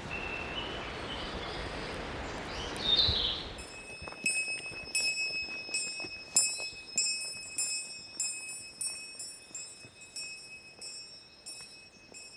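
Outdoor hiss with a few bird chirps. About three and a half seconds in, this gives way to a small bell jingling in a steady rhythm, about two strikes a second, each strike ringing on and gradually fading.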